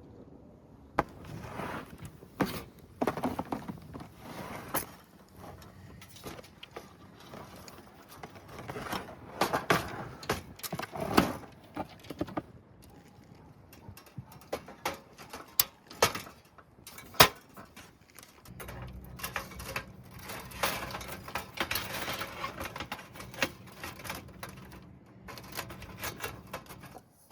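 Irregular clicks, knocks and rustling of objects being handled, with the sharpest knocks around 11 and 17 seconds in.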